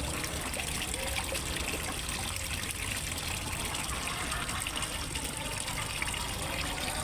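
Water falling steadily into a fish pond from its waterfall, a constant trickling and splashing.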